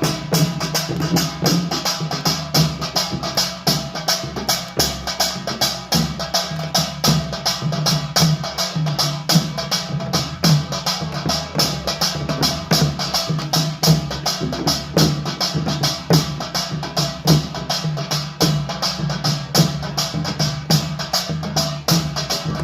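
Korean pungmul percussion ensemble playing a fast, driving beat together: dense, even strokes, with small hand gongs (kkwaenggwari) clanging over the drums.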